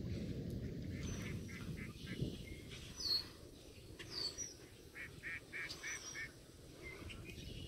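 Birds calling: a run of short repeated notes, two sharp high calls that slide downward, then a second run of repeated notes, over a steady low rumble.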